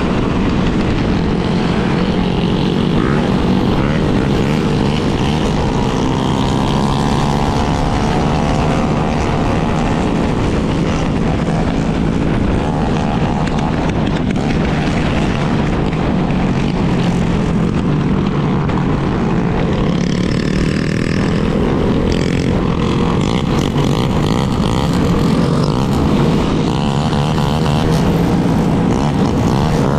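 Yamaha Lander 250's single-cylinder engine running at a steady cruise, with heavy wind rush on the microphone.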